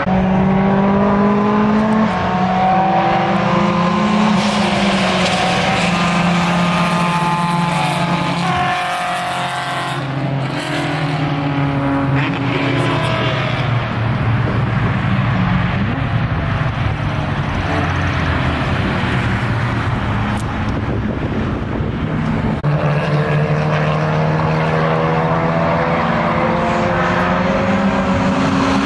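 Race car engines running hard on a road course, their exhaust note rising, falling and stepping in pitch as the cars pass and shift gears, loud throughout.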